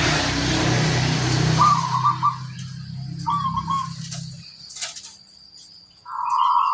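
Zebra dove (perkutut) cooing: short warbled phrases about one and a half and three seconds in, then a longer rolling, trilled coo near the end. A steady hiss and low hum run under the first half and stop about halfway through.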